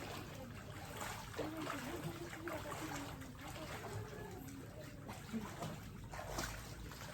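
Water trickling and lightly splashing, with faint voices in the background.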